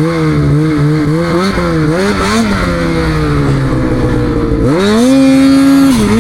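Snowmobile engine running under varying throttle, its pitch wavering up and down, then revved hard about five seconds in and held high, dipping briefly near the end before climbing again.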